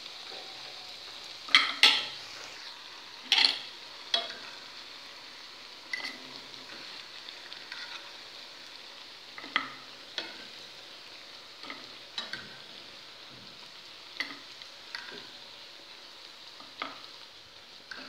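Maqrout pieces frying in hot oil, a steady sizzle, with sharp clinks of a metal fork against the pan as the pieces are turned and lifted out, the loudest a few together a couple of seconds in, then spaced out every second or two.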